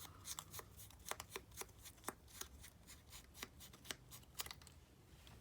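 Scissors snipping paper, a quick, irregular run of light sharp clicks that thins out near the end.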